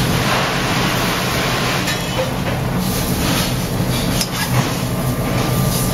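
Heads-on shrimp and chopped garlic sizzling in butter in a hot pan, the sizzle picking up as they go in. Under it runs a steady low mechanical drone.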